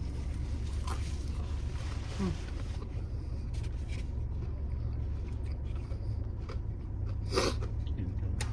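Steady low hum of a car idling, with small scattered clicks and rustles of food wrappers and napkins, and one louder crackle about seven seconds in.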